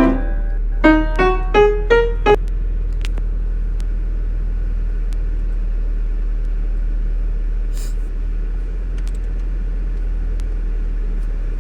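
Piano, about five single notes struck one after another, climbing in pitch over the first two and a half seconds. After that comes a steady low hum with a few faint clicks.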